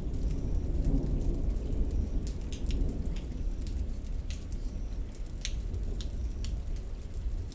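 Thunderstorm: steady rain with scattered sharp drops ticking close by, over a low rolling thunder rumble that eases off toward the end.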